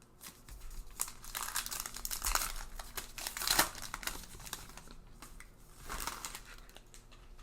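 Plastic-foil wrapper of a baseball card pack crinkling in the hands, in irregular rustling bursts that are busiest in the first half and come again briefly near the end.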